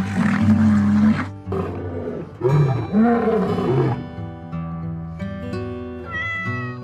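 Lion roaring twice, a call of about a second at the start and a longer one a couple of seconds later, over background acoustic guitar music.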